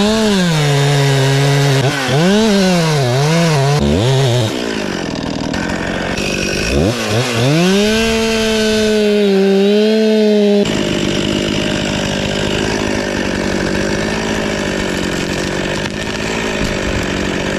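Two-stroke chainsaw revving: the throttle is blipped up and down several times, then held at high revs. For the second half it runs steadily at high revs with a rougher, noisier sound.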